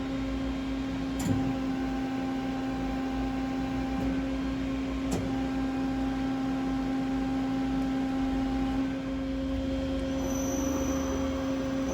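Steady electric machine hum from the powered-up Nakamura TMC-400 CNC turning center, with two light clicks, about a second in and about five seconds in. A faint high whine joins near the end.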